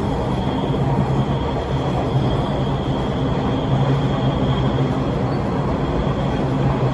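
Bombardier T1 subway car running between stations, heard from inside: a steady rumble of wheels on rail with continuous rattling and knocking vibrations, over a low hum and a faint high whine.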